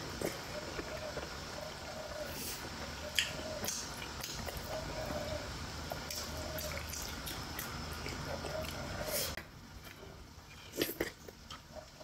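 Close-miked wet chewing and lip-smacking of a person eating steamed momo dumplings dipped in soup, with sharp mouth clicks now and then. A steady background hum drops away about nine seconds in.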